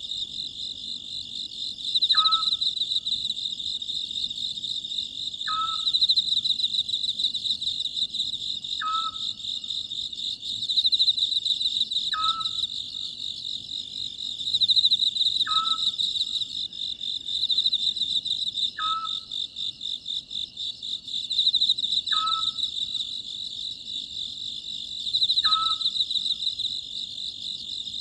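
Oriental scops owl calling, one short, falling call about every three seconds, eight times, over a steady, high-pitched chorus of insects.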